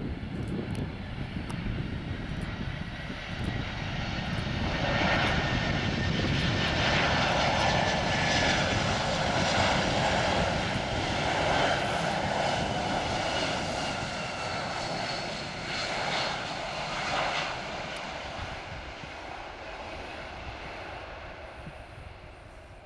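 Boeing 747-400 passing by with its four jet engines running. The engine noise grows to a loud rumble with a whine, holds for about twelve seconds with a faint whine gliding slowly down, then fades away.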